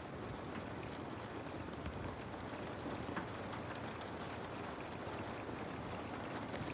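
Steady rain falling, with faint scattered drop ticks against a window.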